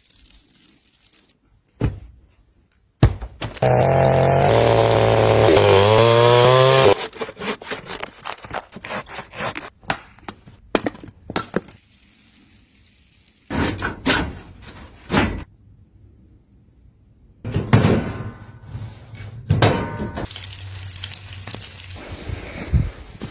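A loud motor runs for about three seconds, its pitch shifting as it goes, followed by a string of sharp knocks and thunks, like wood being worked.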